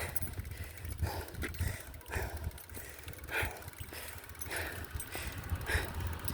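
Bicycle being pedalled uphill, heard on a phone: a steady low wind rumble on the microphone with a soft rhythmic sound about once a second.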